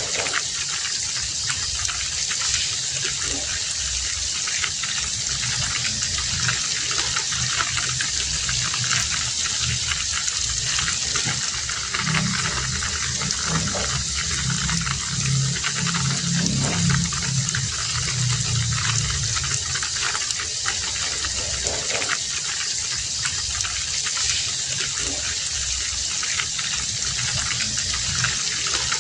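Heavy rain falling, a steady dense hiss with many small drop ticks through it. A low rumble swells in for several seconds near the middle.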